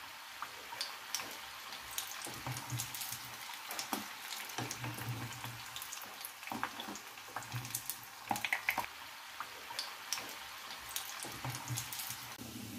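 Tuna-filled pastry turnovers deep-frying in a small pan of hot oil: a steady sizzling hiss with many small irregular pops and crackles.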